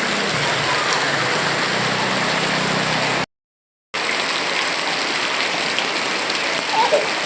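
Heavy rain pouring down, a dense, steady hiss. It cuts out completely for about half a second around three seconds in, then resumes.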